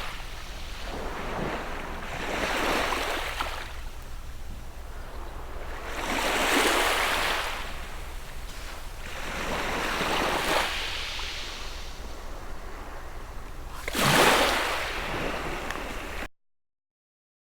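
Small sea waves breaking and washing up the shore, a swell of surf every three to four seconds with the sharpest break near the end, over a steady low rumble. The sound then cuts off suddenly.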